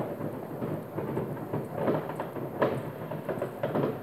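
Many fireworks going off at once far across a town: a continuous rumble of overlapping bangs and crackling, with one sharper bang about two and a half seconds in.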